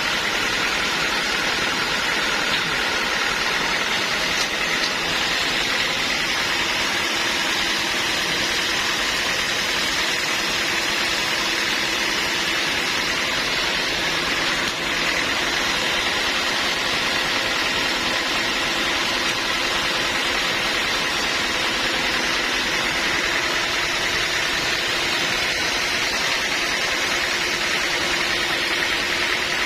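Sawmill machinery running steadily, a constant mechanical drone that does not change.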